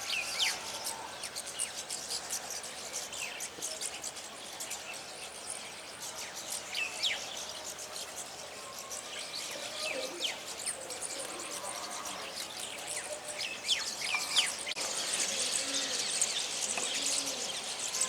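Small songbirds chirping and twittering, many quick, sharp calls overlapping at irregular moments, over a steady high background hiss.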